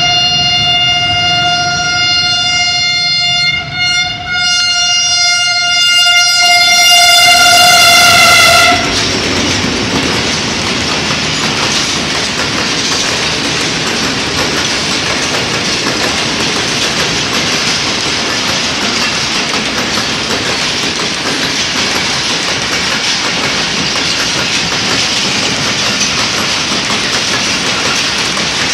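Diesel locomotive horn sounding one long blast for about nine seconds, with a short break about four seconds in and loudest just before it cuts off. The passenger express then passes at speed: a steady rush of wheel-on-rail noise from the coaches.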